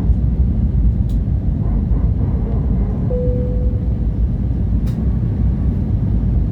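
Airbus A320 cabin noise on approach to landing: a steady low rumble of airflow and engines heard from inside the cabin. A faint brief tone sounds about three seconds in, and there are a couple of faint clicks.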